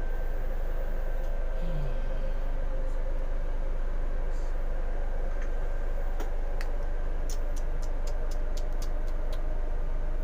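Steady drone inside the cabin of a Scania K410iB double-decker bus standing with its systems running, a low hum under an even hiss. A little past the middle comes a quick run of about eight sharp clicks, about four a second.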